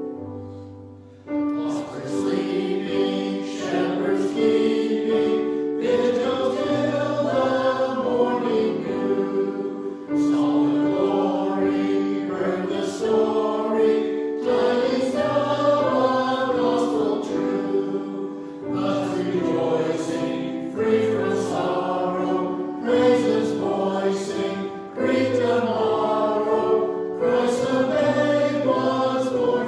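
A choir singing sacred music, held chords in phrases of a few seconds each.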